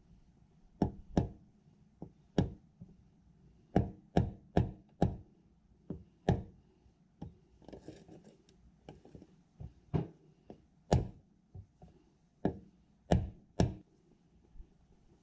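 A hammer tapping in sharp, separate knocks at irregular intervals, some in quick pairs, while working on the rotary shaft oil seal of a cultivator.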